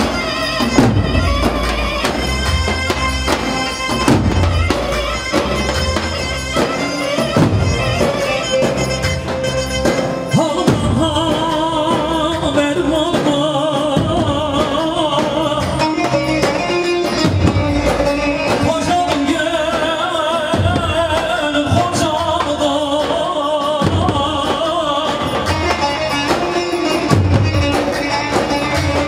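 Live Turkish folk wedding dance music: a steady low drum beat under a wavering, ornamented lead melody that grows stronger about a third of the way through.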